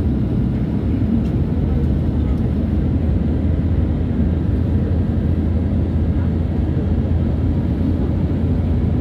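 Airliner cabin noise: a steady, even low rumble of jet engines and airflow.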